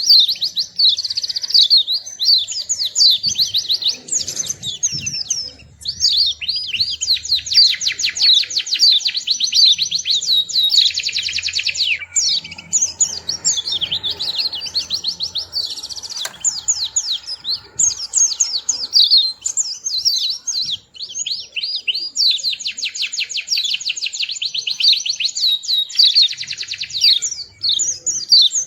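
White-eye (pleci) singing: long runs of rapid, high twittering chirps, broken now and then by short pauses.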